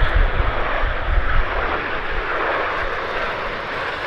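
A pair of BAC Strikemaster jets making a pass, their Viper turbojets giving a steady rushing jet noise that eases slightly toward the end.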